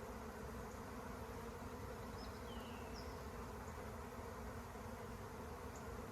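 Honeybee swarm in flight: a steady, dense buzz of thousands of bees in the air. This is the colony swarming, the sign that the queen has left the hive with half the bees.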